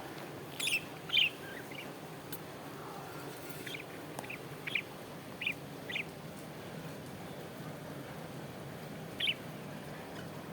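Small pet parrots giving short, sharp chirps, about eight scattered calls with the loudest near the start, over a steady low background hum.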